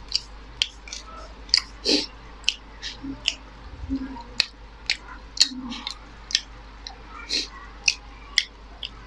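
Close-up mouth sounds of a person chewing a mouthful of spicy instant noodles: wet smacks in an irregular run of about two a second.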